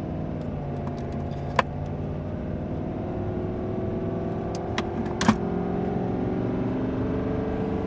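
Ford tow truck's turbocharged engine pulling hard under a heavy trailer load, its drone slowly rising in pitch as the truck gains speed. A few sharp clicks sound around the middle.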